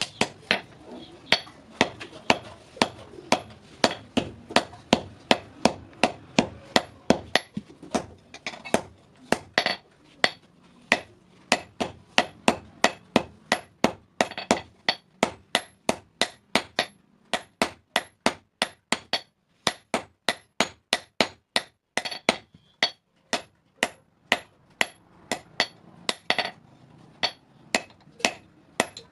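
Blacksmith's hand hammer striking the steel of a hasua blade on an anvil in a steady rhythm, about three blows a second, each with a short metallic ring.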